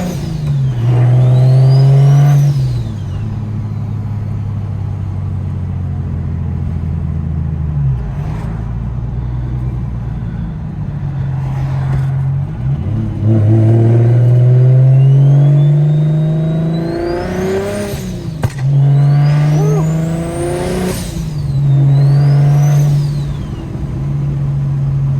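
BMW N54 straight-six with a DocRace single-turbo kit accelerating hard in repeated pulls, its note climbing and dropping back at each gear change. A thin high whistle rises with the revs on each pull, and there is one sharp click a little past the middle.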